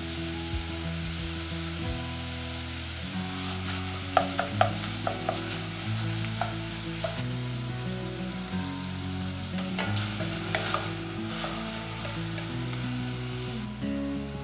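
Ground pork frying and sizzling in a stainless steel pan, a steady hiss, with clusters of sharp clicks against the pan about four seconds in and again around ten to eleven seconds.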